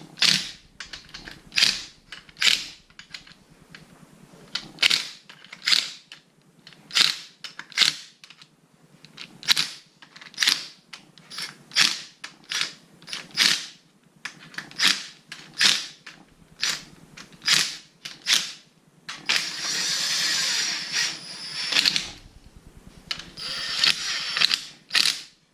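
Bolts being run down with tools: a run of short, sharp rasping bursts about one a second, then an impact wrench running for about three seconds and again for about two seconds near the end, snugging the 17 mm bolts but not yet torquing them.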